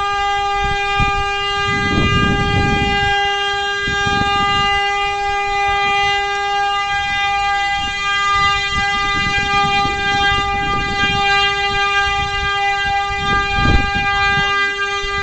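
A vehicle horn sounding on one steady pitch without a break, with bursts of low rumble about two seconds in and again near the end.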